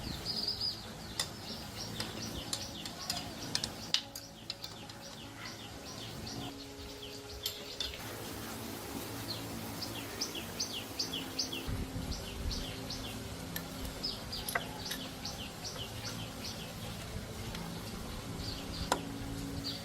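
Small birds chirping in quick runs of short, high notes, over a faint steady low hum, with a few sharp clicks.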